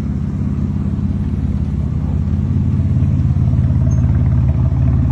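BMW race car's engine running with a deep, rapidly pulsing note that grows steadily louder.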